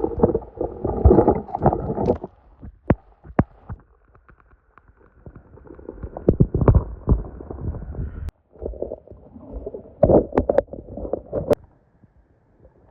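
Shallow lake water sloshing and splashing in irregular bursts as someone wades and scoops at it by hand, with sharp knocks mixed in. The sound breaks off abruptly about eight seconds in, then resumes.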